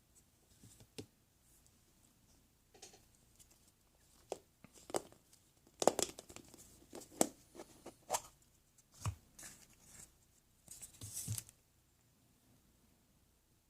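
Foil wrapper of a chocolate surprise egg being torn and crinkled by hand: irregular rustles and sharp crackles, busiest from about four to twelve seconds in.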